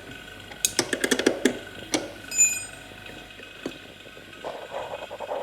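A quick run of sharp clicks and knocks, another knock, then a short high electronic beep about halfway through, and a brief rattle near the end, over a faint steady hum.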